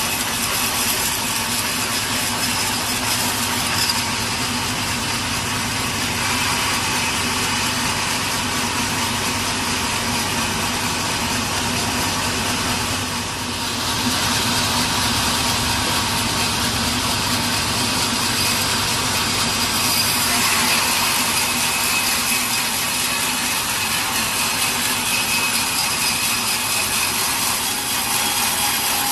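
Sawmill saw cutting through a log, a steady loud mechanical whine and rasp over the hum of the machine's motor, easing briefly about halfway through.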